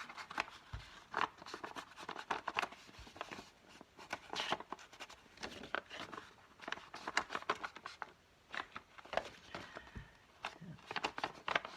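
Irregular light taps and paper rustling: a walnut-stain ink pad being dabbed and rubbed along the edges of coffee-dyed paper.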